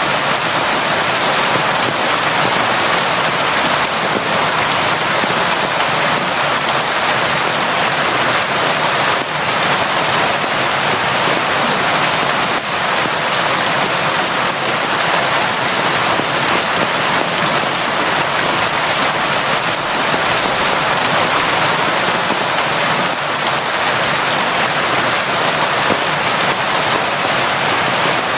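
Steady, heavy rain falling, a dense even hiss of drops with faint individual drop ticks.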